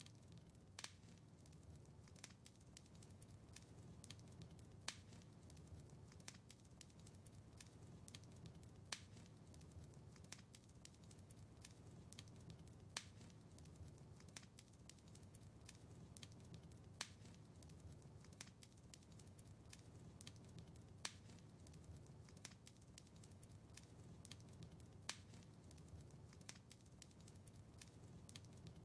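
Faint wood fire crackling in a fireplace: a steady patter of small snaps over a soft low rumble of the flames, with a louder pop about every four seconds.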